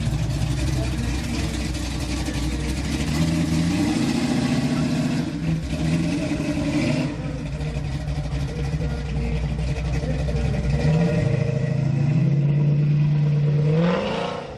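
Car engine running, with its pitch holding steady for long stretches and rising near the end as it revs.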